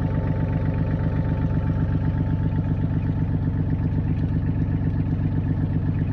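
Mahindra tractor's diesel engine running steadily with an even, rhythmic beat.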